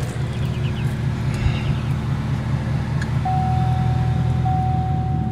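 Chevrolet Camaro's engine idling with a steady low rumble. About three seconds in, a steady electronic tone starts, broken briefly about every second, like a car warning chime.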